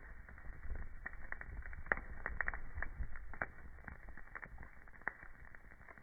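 Burning wood fire crackling, with irregular sharp pops and snaps; the loudest pop comes about two seconds in.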